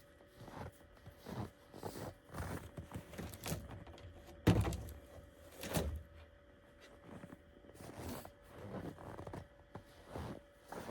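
Irregular series of knocks and thumps, the loudest about four and a half seconds in, over a faint steady hum.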